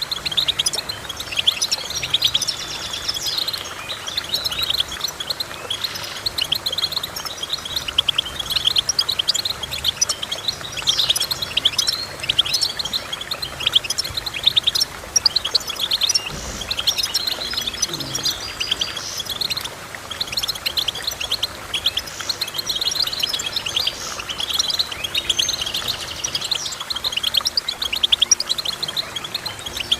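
Finches singing without pause: a dense stream of rapid, high twittering chirps and trills, several songs overlapping.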